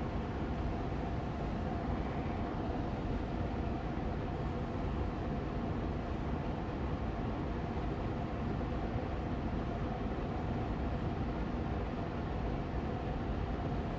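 Air purifier fan running steadily on medium speed: an even rush of moving air with a faint steady hum.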